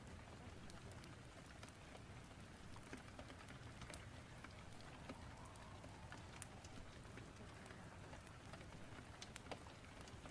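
Faint rain ambience: a steady hiss of rain with scattered sharp ticks.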